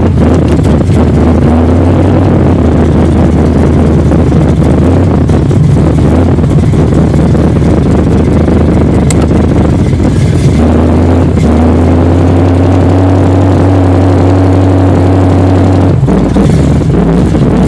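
Big-cam race engine of a 1972 Chevrolet Nova running steadily just after a cold start, its engine speed shifting slightly about ten seconds in and again near the end.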